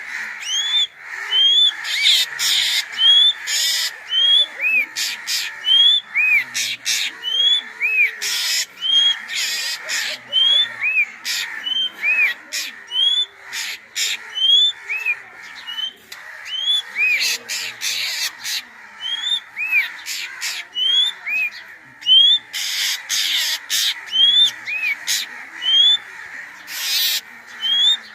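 Crows cawing in repeated harsh bursts, over a run of short rising whistled notes from another bird, about one a second.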